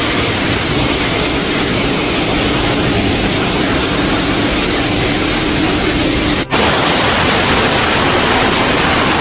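Loud, steady rushing noise with no clear tones, broken by a sudden cut about six and a half seconds in and resuming at once.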